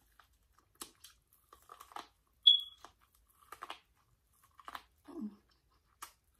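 Close-miked eating sounds: a person chewing and crunching food from a seafood boil, with irregular wet mouth clicks. There is a brief high squeak about two and a half seconds in and a short low hum a little after five seconds.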